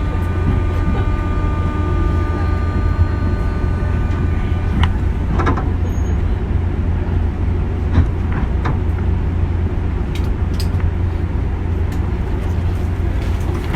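201 series electric train running: a steady, loud low rumble with a whine of several steady tones that cuts off about five seconds in, followed by a few scattered clicks.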